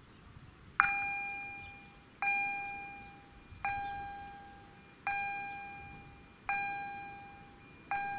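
Level-crossing warning bell (EHL-S10 acoustic signal) starting up about a second in and striking slowly and evenly, about one stroke every 1.4 seconds, each stroke ringing and fading before the next: the crossing has activated to warn of an approaching train.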